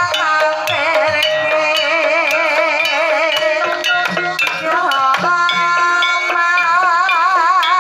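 Javanese gamelan music in Banyumasan tayub style: a sinden's sung line, held notes with a wide wavering vibrato, over the ensemble and frequent sharp kendang drum strokes.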